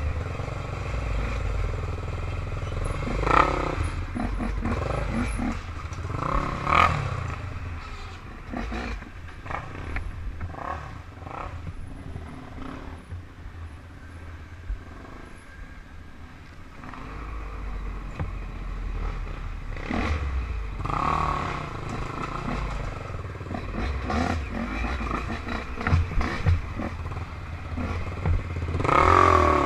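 Off-road engines of quads and dirt bikes running, rising and falling in revs, with several sharp knocks and clatter along the way. An engine revs up louder near the end.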